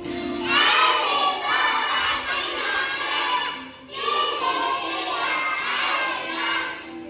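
A group of young kindergarten children's voices raised loudly together in two long stretches, with a short break about four seconds in.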